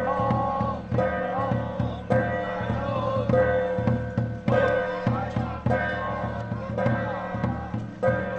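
Traditional Taoist temple ritual music: a melodic line with bending pitches over percussion strikes that fall about once a second.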